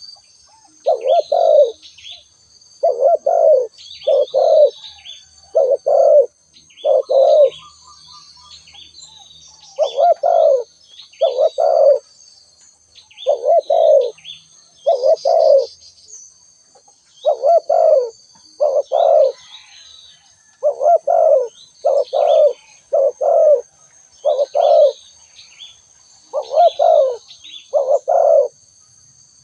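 Spotted dove cooing: repeated phrases of two or three low coos every couple of seconds, with a short pause about eight seconds in. Fainter high chirps of small birds and a steady high-pitched whine run underneath.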